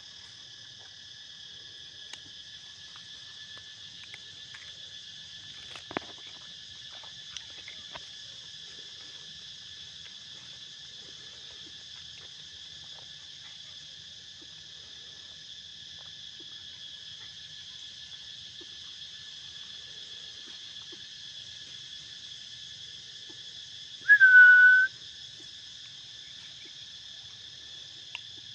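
Steady insect chorus in the forest, a shrill drone in several high bands, with a few faint clicks. Near the end, a single loud whistled note, dipping slightly in pitch, lasts under a second.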